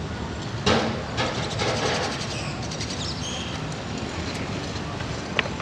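Steady rumble of a passing train, with a loud clack about a second in followed by a run of short, evenly spaced clicks.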